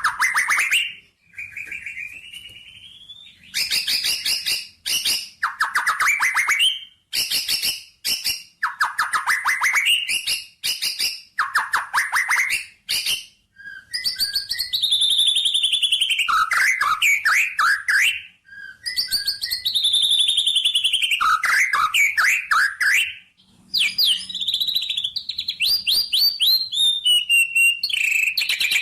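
A bird singing a varied song: bursts of rapid ticking trills, several rising in pitch, and from about halfway through long whistled notes that fall in pitch, repeated with short gaps.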